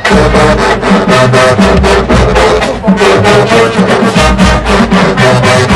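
Marching band brass and drums playing loud, opening a halftime show, with a steady drum beat. It starts suddenly at full volume.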